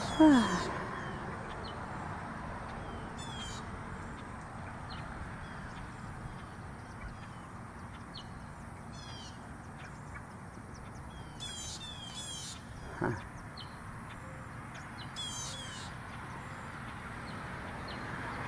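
Small birds calling in short bursts of quick, high chirps every few seconds over a steady hiss. A loud falling note sounds right at the start and another about two-thirds of the way through.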